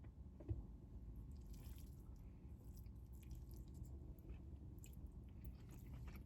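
Faint chewing and mouth sounds over a low steady background rumble, with a small thump about half a second in.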